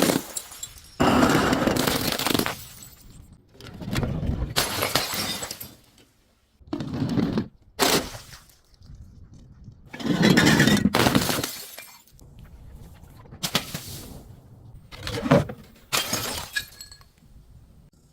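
Glass being broken and crushed, shattering and crunching in a string of separate bursts, some short and sharp, some drawn out over a second or two.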